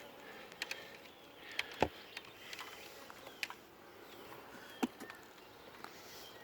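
Wooden beehive parts being handled: a few scattered light knocks and clicks, the loudest about two seconds in and again near five seconds.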